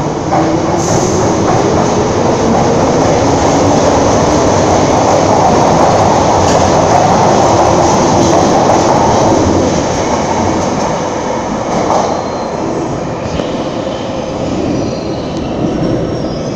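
London Underground tube train pulling out of the station and accelerating along the platform, rumbling and clattering over the rails with some wheel squeal. It builds to its loudest about halfway through, then fades as the train runs into the tunnel.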